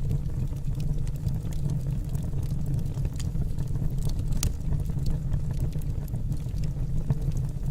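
Logs burning in a fireplace: a steady low rumble of the fire with scattered crackles and small pops of the burning wood, one sharper pop about four seconds in.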